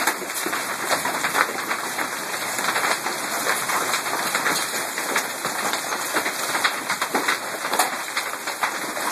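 Hailstones and rain pelting down: a dense, steady clatter of countless small ice impacts over a hiss of rain.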